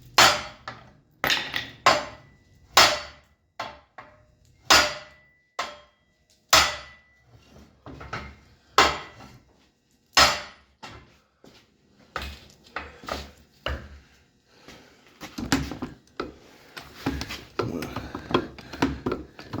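A big hammer striking the steel plow frame to straighten it: about ten heavy, irregular blows in the first ten seconds, some leaving a short metallic ring, then lighter knocks and clanks.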